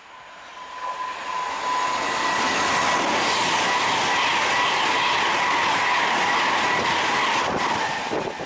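A train passing close by: its noise builds over the first two seconds, holds steady, then falls away sharply near the end, with a steady high-pitched ringing tone running through it.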